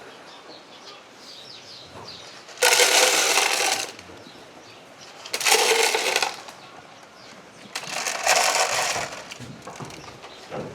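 Dry feed being poured into feed bowls in three separate pours, each a loud rattling rush lasting about a second.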